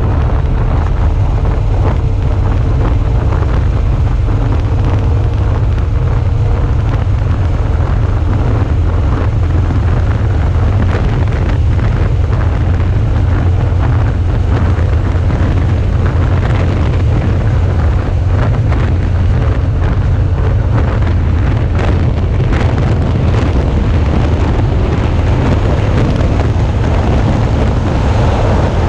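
Steady wind rush buffeting the action camera's microphone on a moving Suzuki V-Strom 650, with the bike's V-twin engine and road noise running underneath as a constant deep rumble.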